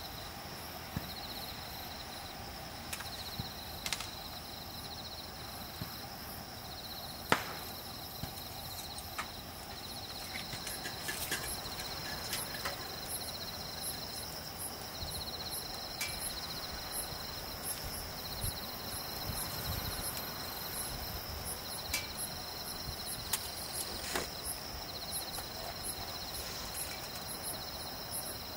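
Insects chirring steadily in the late-summer evening, one high trill breaking into repeated runs of a few seconds over another that holds steady, with scattered sharp clicks and knocks, the loudest about seven seconds in.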